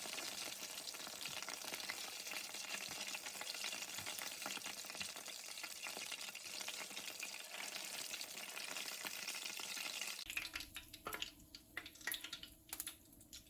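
Chicken pieces shallow-frying in hot oil, a steady dense sizzle. It cuts off abruptly about ten seconds in and gives way to a few light clicks and knocks.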